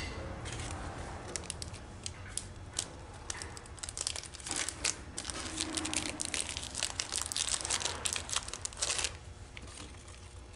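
Plastic parts packaging crinkling and rustling as it is handled, a dense run of small irregular crackles that eases off about nine seconds in.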